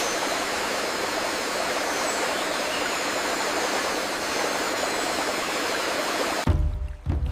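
Steady rush of flowing water, like a stream or small waterfall, that cuts off abruptly near the end.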